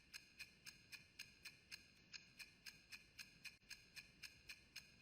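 Faint, steady ticking, about four even ticks a second.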